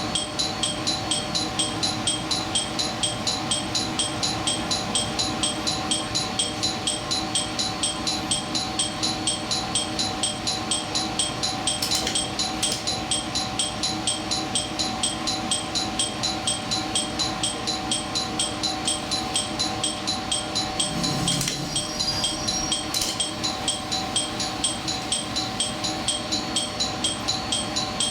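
Japanese railway level-crossing warning bell ringing steadily at about three strikes a second, then stopping just before the end.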